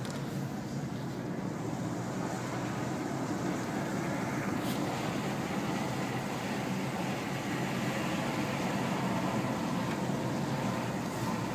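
Steady noise of a car on the move: an even, low tyre and engine rumble.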